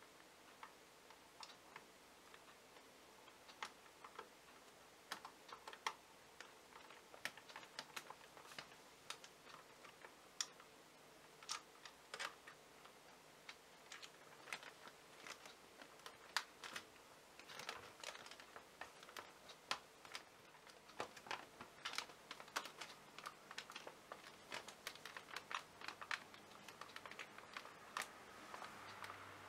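Faint, irregular small clicks and ticks of a Phillips screwdriver turning a screw and of hands handling the plastic body and battery of a Dyson V6 cordless vacuum.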